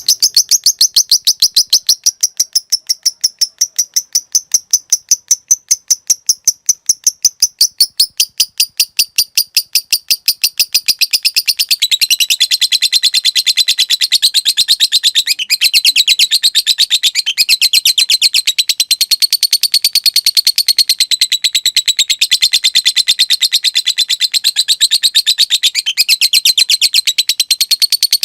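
A lovebird chattering in one long unbroken run of rapid, high-pitched notes: the long 'ngekek' song prized in fighter lovebirds. The notes come about seven a second at first, then run faster and closer together, a little lower in pitch, from about ten seconds in.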